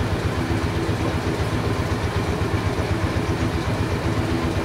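Engine idling steadily, with a fast, even throb.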